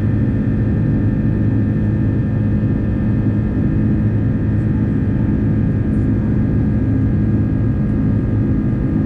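Airbus A330-300 jet engines running steadily: a loud, even drone with several constant tones above it.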